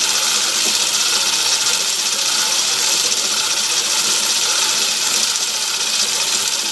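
Myford ML7 lathe running slowly in back gear, a steady, even hiss-like whir from its drive and gearing while the threading tool is brought up to the work.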